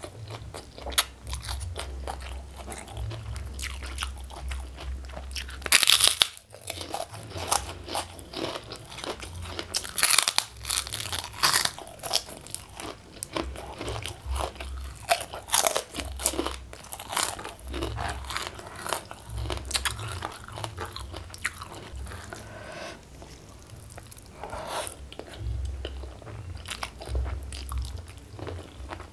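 A person chewing and biting food close to a clip-on microphone, with irregular crisp crunches of crackers (kerupuk) mixed into the wet chewing. The loudest crunches come about six seconds in and again around ten to twelve seconds.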